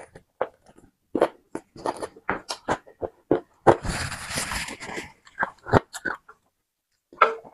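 Wet chewing and lip-smacking on roast duck meat, many quick smacks, then about three and a half seconds in a paper tissue rubs and rustles over the mouth and nose for a second and a half, followed by a few more smacks.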